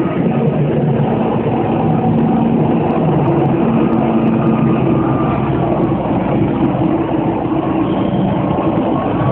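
Heavy engine running steadily with a constant low hum, its tone shifting slightly about halfway through.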